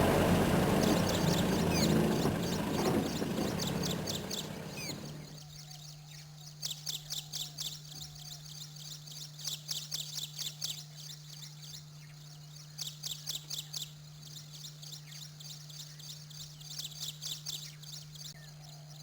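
A vehicle engine runs for the first five seconds and then cuts out. After that, short trains of rapid high-pitched chirping trills come four or five times, each about a second long, over a faint steady hum.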